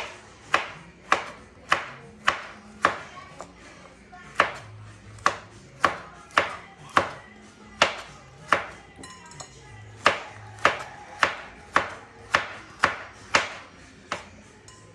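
Kitchen knife dicing carrots on a cutting board: a steady run of sharp chops, about two a second, with a brief pause about nine seconds in.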